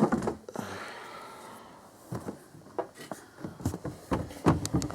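Scattered light clicks and knocks of parts being handled, with a sharper knock right at the start and more frequent clicks in the second half.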